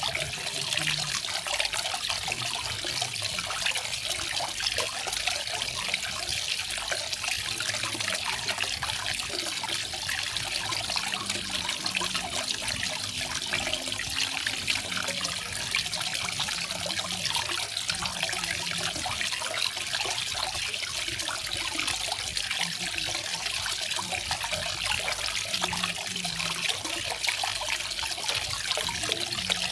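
Small garden waterfall: water falling and splashing in a steady hiss, with no changes.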